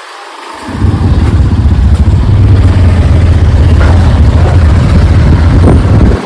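Motorcycle on the move: a loud, low, fluctuating rumble that comes in about half a second in and cuts off abruptly near the end.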